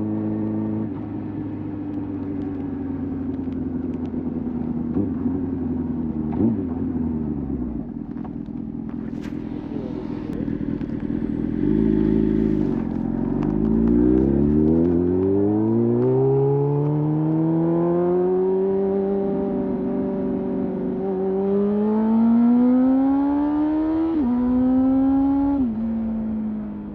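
Motorcycle engine running at a steady low pace, then from about halfway through accelerating hard, its pitch climbing smoothly and dropping sharply twice near the end as it shifts up through the gears.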